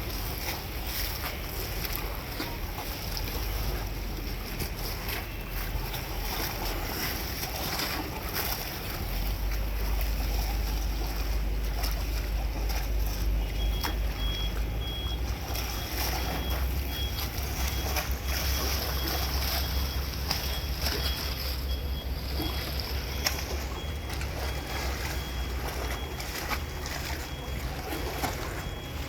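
A ferry's engine running with a steady low drone that grows louder about a third of the way in as the boat pulls away from the pier, over wind and water noise. About halfway, a series of short, evenly spaced high beeps starts and keeps going.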